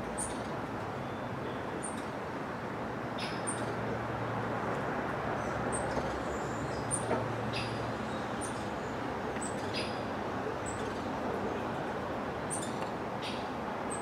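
Short, sharp, high-pitched bird call notes, a dozen or more at uneven intervals, over a steady low background noise.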